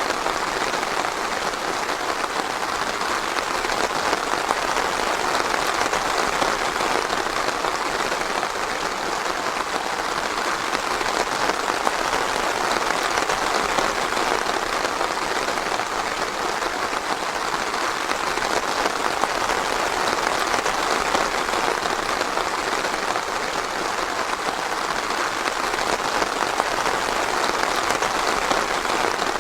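Steady light rain falling in a forest: an even hiss of many drops that holds the same level throughout, with no thunder.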